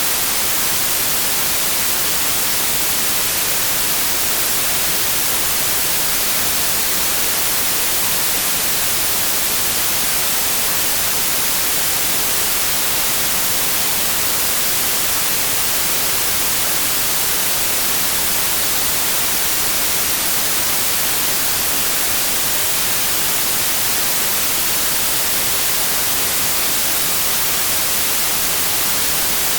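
Steady, loud white noise: an even, unbroken hiss weighted toward the treble, with no changes or events.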